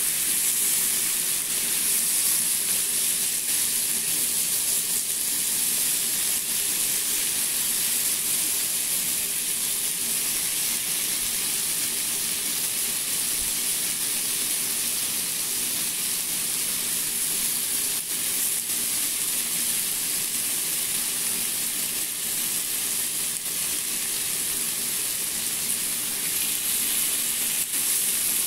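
Chicken breasts sizzling steadily as they pan-fry in a nonstick frying pan, an even high hiss.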